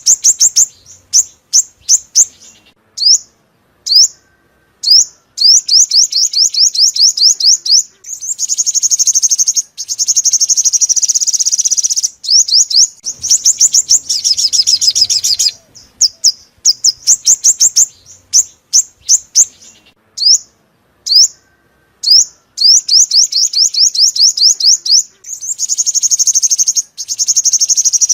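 Sunbird song from a lure recording: rapid trills of high, down-slurred notes, about eight a second, broken by short pauses and by several denser, buzzy phrases lasting a few seconds each.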